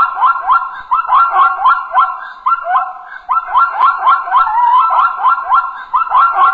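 Zebra calling: a rapid run of high, yelping barks, about three a second, each sweeping up sharply in pitch.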